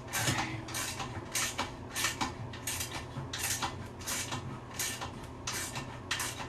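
Wrench tightening a nut down a long toilet tank-to-bowl bolt: short metallic rasping strokes repeat about twice a second as the nut is run down.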